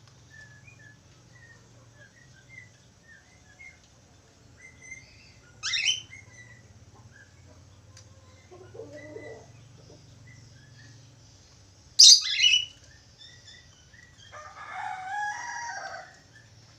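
Budgerigar chirping and warbling: soft short chirps at first, two loud sharp squawks about six seconds apart, then a burst of chattering warble near the end.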